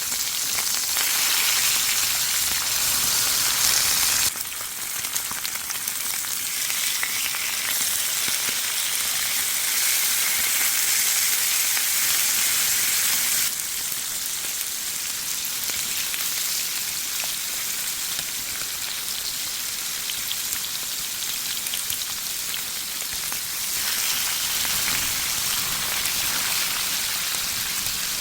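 Scored pork belly sizzling on a grill, mixed with steady rainfall, a continuous hiss. The sound changes abruptly three times, about four, thirteen and twenty-four seconds in, as the mix shifts.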